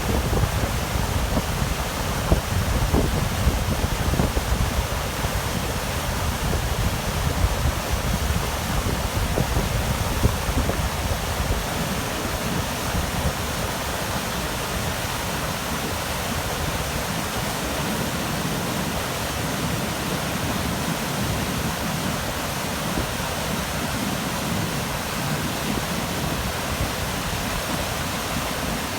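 Wind gusting on the microphone over a steady rushing outdoor noise. The low buffeting is strong for the first dozen seconds, then eases into an even hiss.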